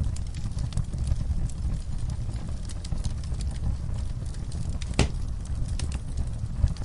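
Campfire burning: wood crackling and popping with many sharp snaps over a low, steady rumble of the flames, and one louder pop about five seconds in.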